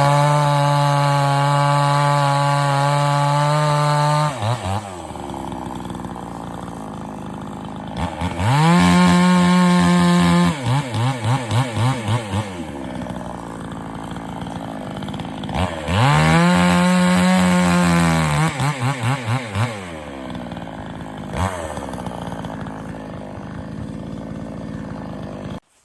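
Pinkway gas chainsaw held at full throttle three times for a few seconds each, dropping back to idle in between with a few quick throttle blips. It idles, then cuts off abruptly near the end.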